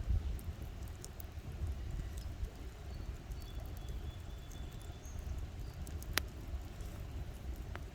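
Campfire crackling: scattered small pops and snaps over a low rumble, with one louder snap about six seconds in.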